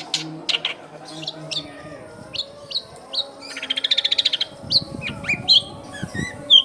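Long-tailed shrike (cendet) singing a varied song of short, sharp chirps, broken about halfway by a fast trill lasting about a second and followed by quick falling whistles.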